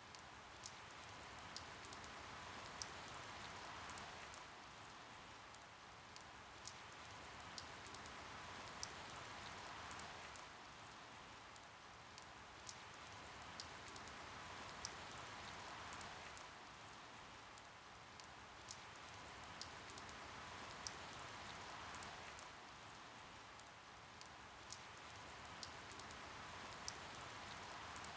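Faint steady rain with individual drops ticking sharply on a surface, the patter gently swelling and easing about every six seconds.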